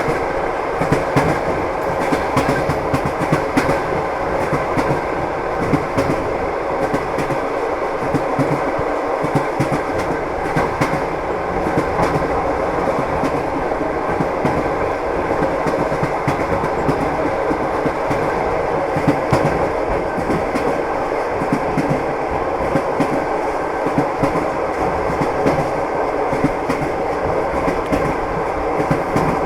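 A moving train's wheels clattering over the rails, over a steady rumble and rush, with frequent clicks and knocks.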